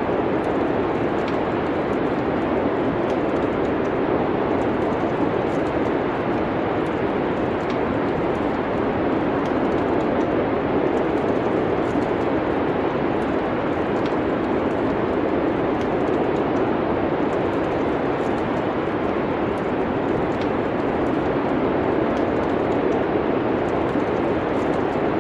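Steady wind noise of a winter-storm ambience, with faint fireplace crackles ticking here and there.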